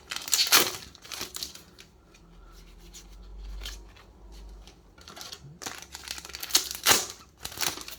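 Trading-card booster packaging being torn open by hand: sharp tearing and crinkling of wrapper in two spells, over the first second and a half and again from about five and a half seconds until near the end, with quieter rustling in between.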